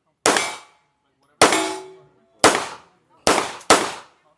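Five single gunshots from a firearm at an uneven pace, the last two close together, each cracking sharply and ringing out briefly.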